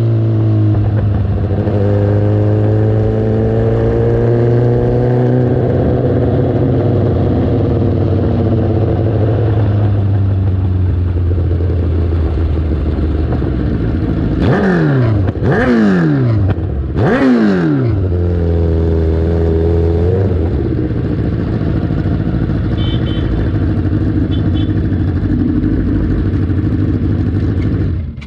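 Kawasaki ZX-10R's inline-four engine running at low, gently varying revs on a slow lap, with three quick swoops in engine pitch about halfway through, then settling to a lower, steady run.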